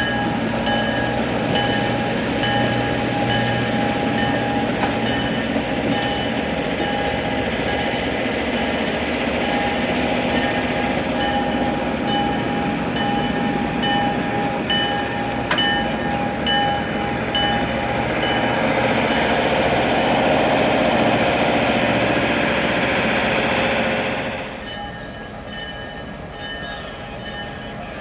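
Train behind US Army 2-8-0 steam locomotive No. 610 rolling past, its wheels squealing steadily on the rails over the rumble of the cars. The rolling noise swells, then drops away suddenly near the end.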